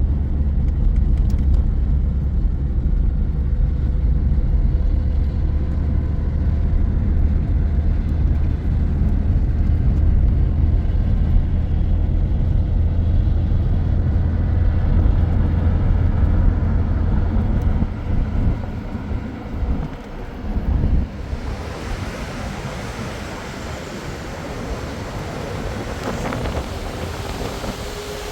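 A vehicle running and moving, giving a steady low rumble, which fades out after about 18 seconds. From about 21 seconds a steady even hiss takes over.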